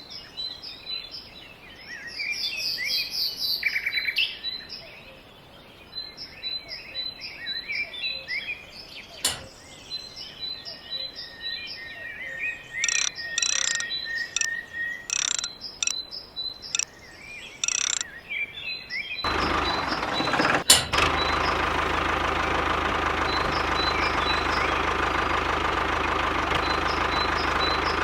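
Small birds chirping repeatedly with a few sharp clicks. About two-thirds of the way in, this gives way abruptly to the steady running of a small engine, the mini water pump's motor, which is louder than the birdsong.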